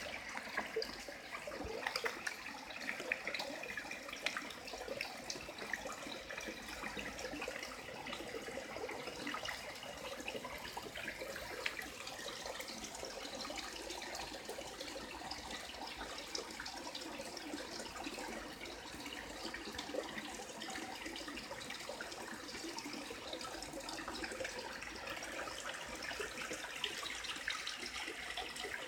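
Water from a small garden waterfall splashing and trickling steadily into a koi pond.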